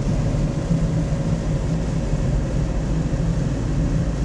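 Steady low rumble of a car's engine and tyres heard from inside the moving car's cabin, with a faint steady whine above it.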